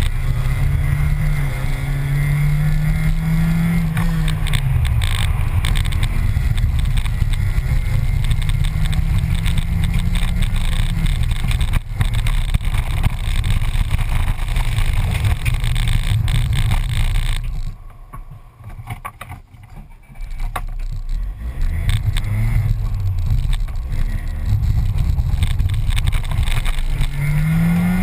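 Škoda Felicia rally car's engine, heard from inside the cabin, pulling hard and revving up and down through the gears. Past the middle the engine note falls away sharply for about two seconds, then picks up and climbs again.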